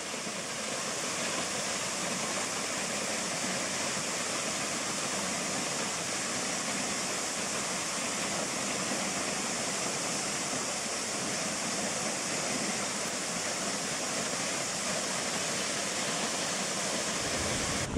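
Steady rush of Hunua Falls, the Wairoa River dropping 30 metres over a basalt lava plug into its pool.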